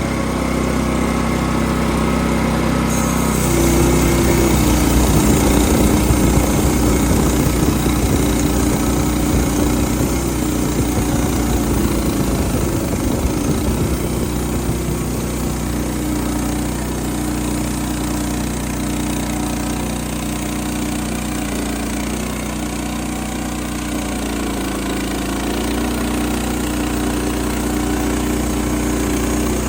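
Wood-Mizer LX25 portable sawmill's 9.5 horsepower engine running steadily as the band blade saws a pin oak log. It gets louder and rougher for about ten seconds from around four seconds in, then settles.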